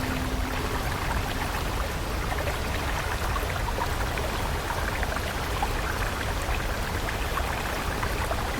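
Stream water flowing steadily, with small scattered splashes and trickles.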